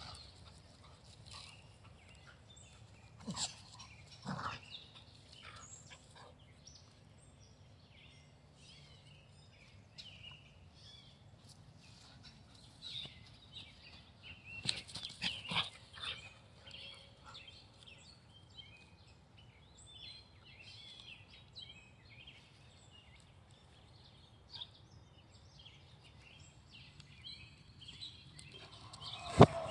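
Birds chirping outdoors, many short scattered chirps throughout. A few sharp knocks break in, the loudest just before the end.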